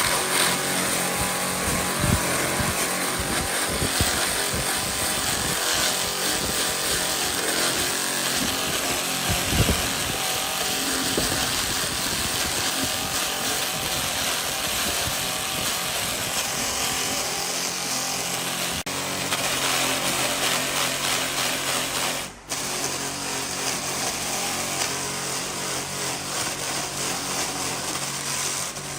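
A power tool running steadily, with a few knocks in the first ten seconds, briefly cutting out about 22 seconds in.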